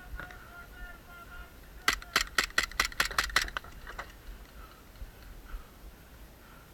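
Rapid string of about eight airsoft gun shots, sharp cracks coming five or six a second for about a second and a half, starting about two seconds in.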